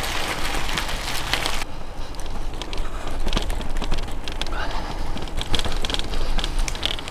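Bicycle rattling and clicking as it rides over an uneven path, with wind noise on the microphone that drops away about two seconds in.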